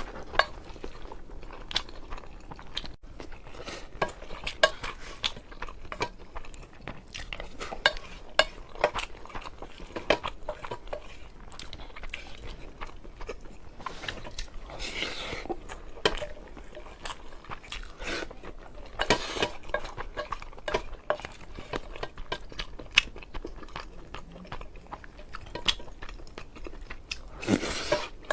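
A spoon clicking and scraping against a bowl while someone eats, with chewing in between: dozens of sharp, irregular clicks and a few longer scrapes.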